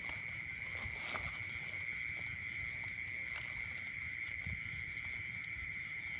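Insects chirring steadily: a constant high drone with a faster, evenly pulsing chirp above it. Under it, low irregular thumps and rustling from walking through the field.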